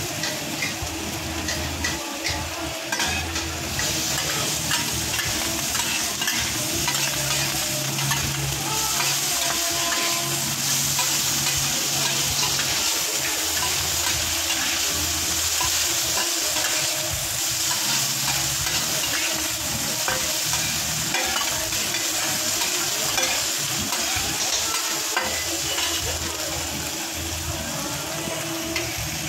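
Oysters and crispy batter frying in oil on a large flat griddle pan, with a steady sizzle. Steel spatulas scrape and tap against the pan in many short clicks.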